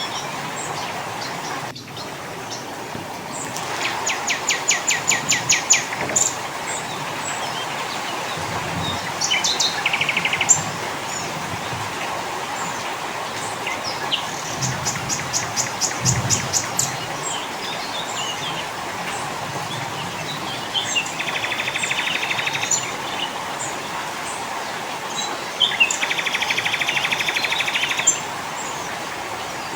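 Several small forest songbirds singing, a mix of species. Fast runs of sharp, evenly repeated notes alternate with buzzy trills, over a steady background hiss.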